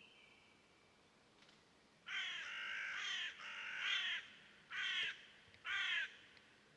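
A bird giving a series of about five loud cawing calls, starting about two seconds in, the last two short and about a second apart.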